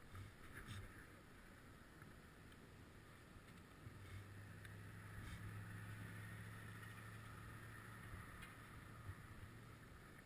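Near silence: faint steady background noise, with a low steady hum that comes in about four seconds in and fades out near the end.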